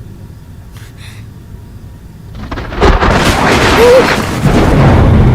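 Thunder: a faint low rumble, then a loud crack about three seconds in that rolls on as a heavy, low rumble.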